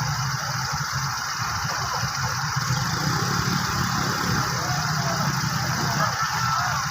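A small engine or motor running steadily with a fast, even low pulsing, with faint short chirps above it.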